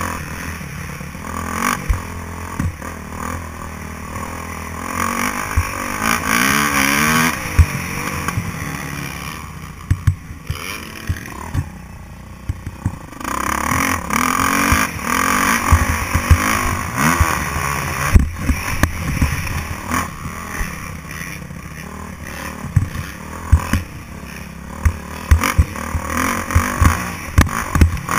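Motocross bike engine revving up and down repeatedly as it is ridden, with many sharp knocks and thumps throughout.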